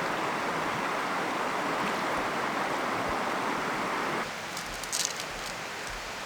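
Steady rush of river water, which drops abruptly to a quieter hiss about four seconds in.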